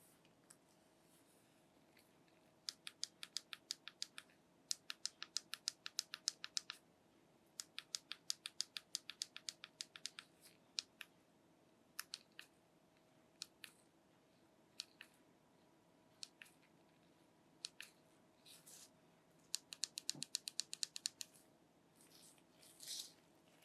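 Typing on the Samsung Galaxy S24 Ultra's touchscreen keyboard: faint runs of light clicks, about five a second, broken by pauses and single taps.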